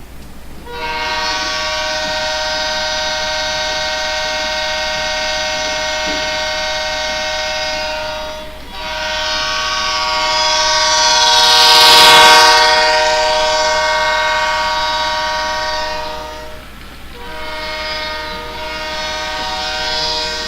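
Multi-chime locomotive horn sounding three long blasts. The second blast swells loudest and slides in pitch about twelve seconds in, as the train passes.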